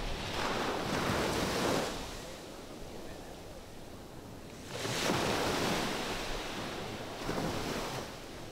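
Ocean waves washing onto a beach, three swells of surf that rise and fade, with some wind on the microphone.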